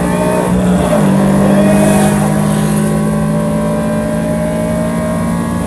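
2022 Toyota GR86's 2.4-litre flat-four engine accelerating at high revs, heard from inside the cabin, holding a steady note with a short dip in pitch about a second in.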